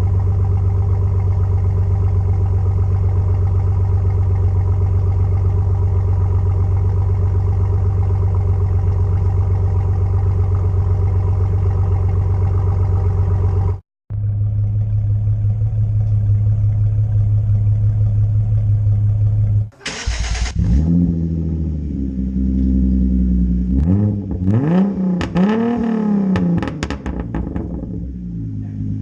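Vehicle engine and exhaust idling steadily with a deep, even note, broken by a sudden cut about 14 seconds in. From about 20 seconds in, after a brief hiss, the engine is revved repeatedly, its pitch climbing and falling with each blip.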